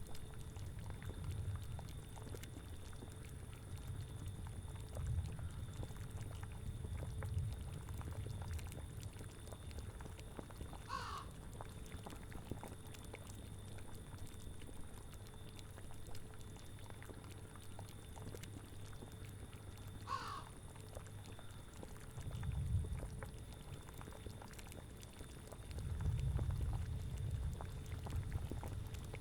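Layered spooky ambience: low autumn wind rising in gusts, with a boiling cauldron bubbling under it. A crow caws briefly twice, about eleven and twenty seconds in.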